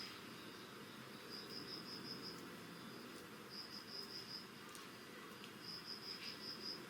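Crickets chirping: three bursts of quick, evenly pulsed high trills, each about a second long, over a faint steady high insect trill.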